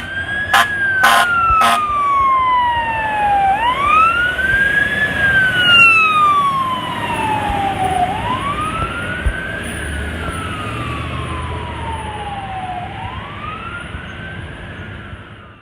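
Fire apparatus responding: a few short air horn blasts in the first two seconds, then a Federal Q mechanical siren winding up quickly and coasting down slowly, about three times, fading away near the end.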